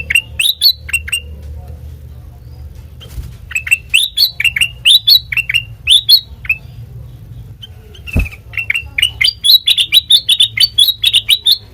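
Kutilang mas (a bulbul) singing: bursts of short, clear chirps that sweep down in pitch, ending in a fast, nearly unbroken run. A single sharp click about eight seconds in, over a low steady hum.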